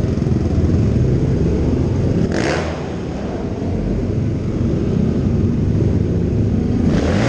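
Quad (ATV) engines running hard in a race, revving up and down, with a brief sharper, higher rise about two and a half seconds in.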